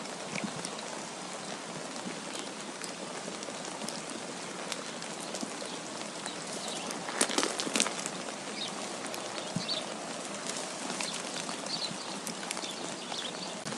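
Steady hissing patter of falling precipitation, dense with small drip-like ticks, like rain or sleet striking a surface, with a brief flurry of louder ticks about halfway through. A few faint high chirps come in the second half.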